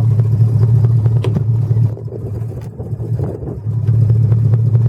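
Boat engine running with a steady low drone, easing off for a couple of seconds in the middle and then coming back.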